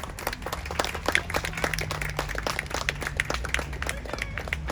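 Small audience applauding: scattered hand claps that build just after the start and thin out near the end.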